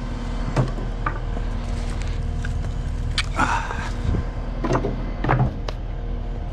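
Scrap lumber and construction debris knocking and clattering as pieces are tossed by hand, a handful of separate knocks over a steady low hum.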